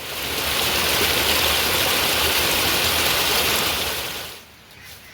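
A steady rush of water noise, loud and hissing, that swells in over the first second and dies away about four seconds in.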